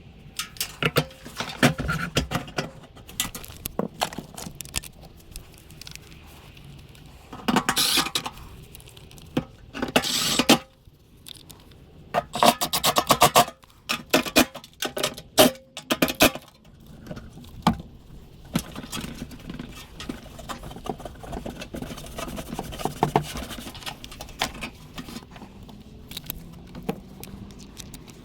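Metal parts and hand tools clinking, clanking and scraping during hands-on work on a furnace, with a quick run of rapid clinks about halfway through. Two short hissing bursts come about 8 and 10 seconds in.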